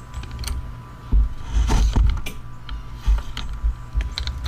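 Carbon telescopic fishing rod being collapsed by hand: the sections slide into one another with irregular clicks and knocks, and heavier handling bumps about one to two seconds in.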